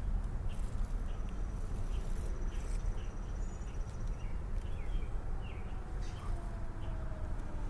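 Outdoor ambience: small birds chirping here and there and a high, fast trill lasting a few seconds, over a low rumble of wind on the microphone.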